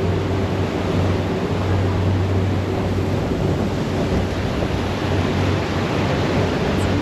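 Jet boat engine running steadily under the rush of turbulent tidal water, with wind buffeting the microphone.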